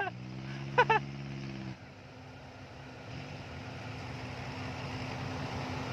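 Farm tractor engines running steadily. A nearer, stronger engine note stops abruptly a little under two seconds in, while a lower steady engine hum carries on.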